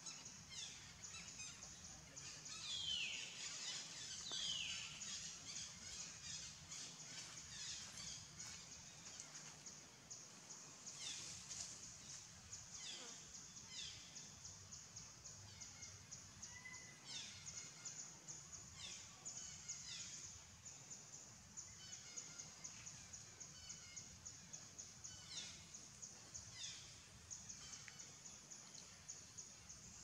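Faint outdoor ambience: short bird calls that fall in pitch, repeating every second or two and loudest about three to five seconds in, over a steady high buzz.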